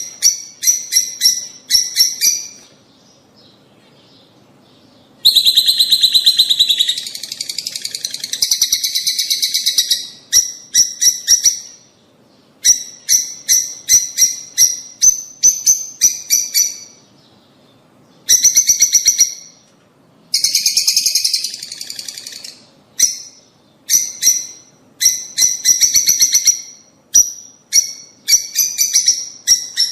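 Lovebirds chattering: runs of rapid, shrill chirps, with a pause about three seconds in and a denser unbroken chatter from about five to twelve seconds.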